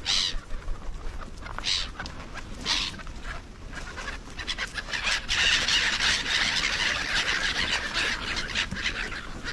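Seagulls calling, with short squealing cries three times in the first three seconds, then a dense, continuous rush of high noise from about five seconds on.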